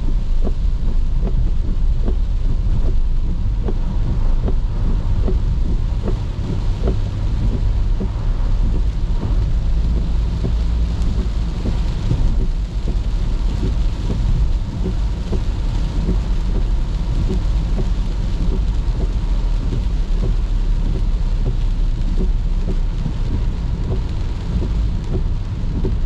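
Rain pattering on a moving car, many small drops ticking, over a steady low rumble of the car and the road.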